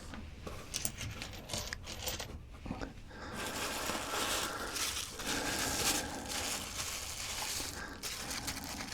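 Paper packing crinkling and rustling for several seconds as stone preforms are unwrapped, after a few light clicks of stone being handled and set down.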